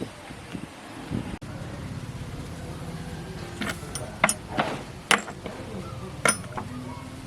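Half a dozen sharp metallic clinks and taps, irregularly spaced, in the second half, over a steady low hum.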